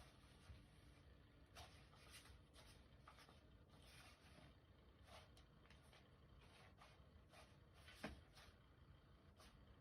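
Near silence: quiet room tone with faint scattered rustles and light taps, one slightly louder tap about eight seconds in.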